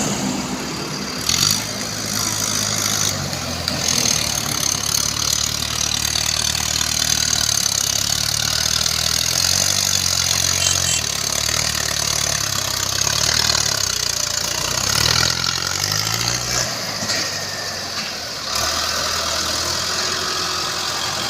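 Mahindra Arjun 555 diesel tractor engine running, its note shifting up and down in steps as the engine speed changes. About three-quarters of the way through the low engine note drops away.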